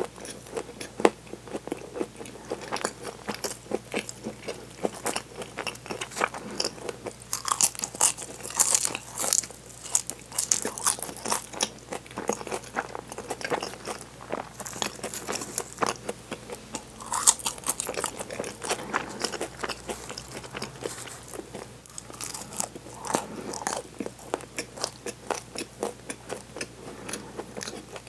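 Close-up crunching and chewing of a flaky chocolate pastry, a steady run of crisp crackles that grows thickest about a third of the way in and again a little past the middle.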